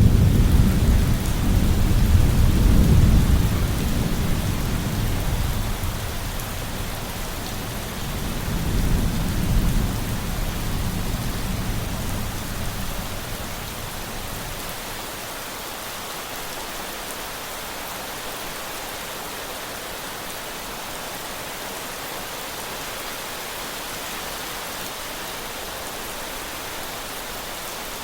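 Heavy rain falling steadily with rolling thunder: a loud, long rumble at the start, a second swell of rumble about eight to ten seconds in, then the thunder fades out by about halfway, leaving only the even hiss of the rain.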